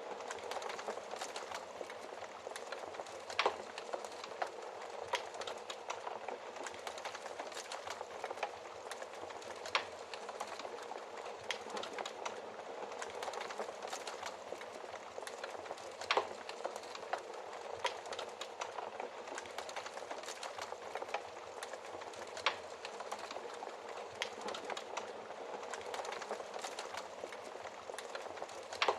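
Wood fire crackling in a fireplace: a steady hiss with irregular snaps, and a few louder pops, one a few seconds in, one about halfway and one a little after that.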